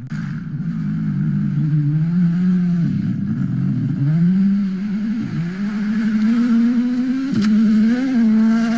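Rally car engine revving hard under acceleration. Its pitch climbs, drops sharply with quick gear changes about three, four and five seconds in, then climbs again.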